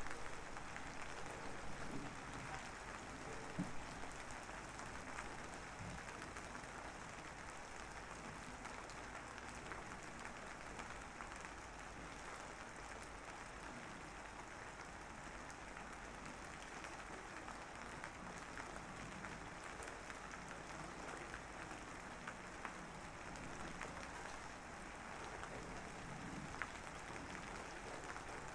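Steady rain falling, an even patter with a few louder drops in the first few seconds.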